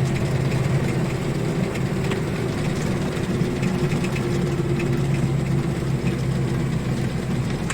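ZIL-130 truck's V8 petrol engine running at a steady speed while the truck drives along.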